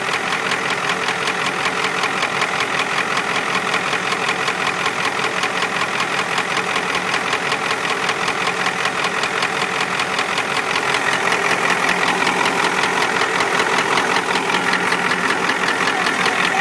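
Ford 7.3 IDI turbo V8 diesel engine running with a steady rhythmic knock, getting a little louder about two-thirds of the way through.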